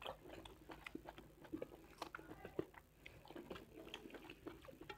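Faint, close-miked chewing of a mouthful of rice and curry: irregular wet clicks and mouth smacks, with fingers squishing rice into gravy on a steel plate.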